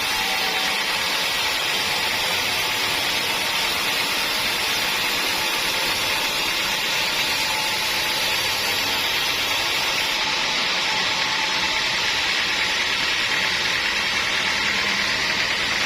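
Sawmill machinery running steadily, a loud even mechanical noise.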